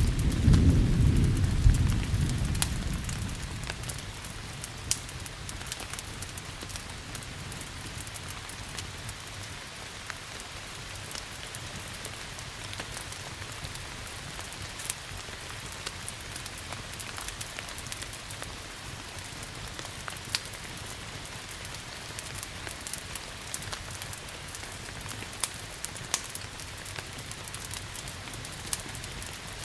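Steady rain with a log fire crackling, sharp pops scattered through it. A roll of thunder rumbles at the start and dies away within the first few seconds.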